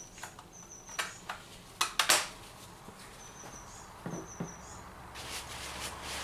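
Sharp clicks and knocks of tools and gear being handled, the loudest about two seconds in, with a few short high chirps in between.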